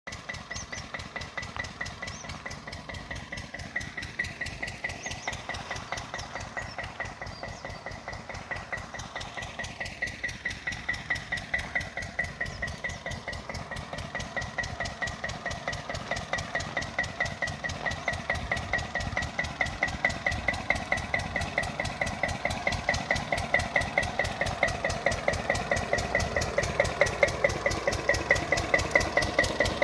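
Lister 6 hp single-cylinder diesel engine of a pump set running steadily, its slow, even beat with a metallic ring on each stroke, growing louder toward the end.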